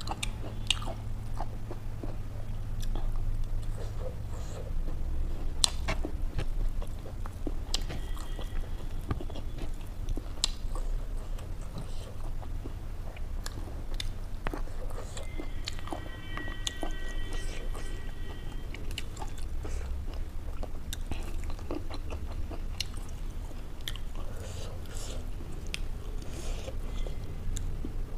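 Close-up eating sounds: biting and chewing food with many small crunchy clicks, made while eating by hand from a meal of stink beans, smoked pork and raw greens.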